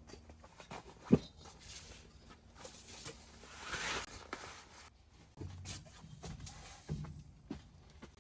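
Scattered knocks and clicks of things being handled, with one sharp knock about a second in and a brief rustling swell around four seconds in.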